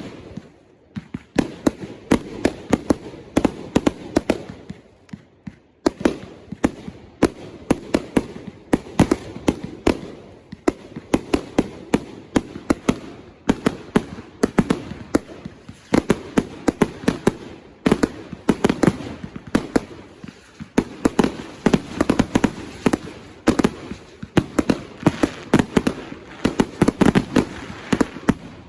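Consumer fireworks going off in quick succession: many sharp bangs and pops a second, with a brief lull about five and a half seconds in.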